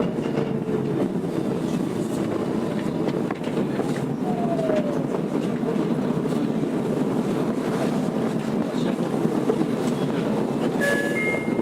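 Tokyo Metro 02 series subway train with IGBT-VVVF drive, heard from inside the car as it runs on the Marunouchi Line: steady wheel-and-rail rumble with clicks over rail joints, as the train nears its stop at Tokyo station. A short falling motor tone sounds a few seconds in, and a few high steady tones come in near the end.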